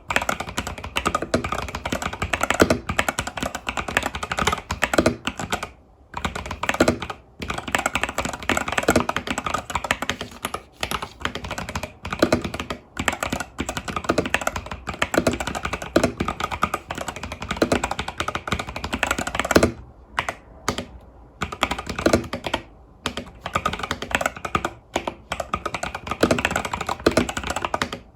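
Fast continuous typing on a mechanical keyboard with tactile switches (Epomaker TH80 Pro with Epomaker Budgerigar tactile switches and stock keycaps), keystrokes clacking in quick runs broken by a few short pauses.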